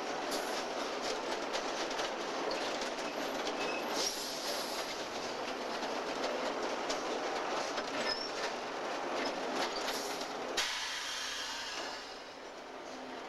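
Train of railcars rolling along the track behind a locomotive, a steady rumble of steel wheels on rail with scattered clicks. The noise drops off suddenly about ten and a half seconds in.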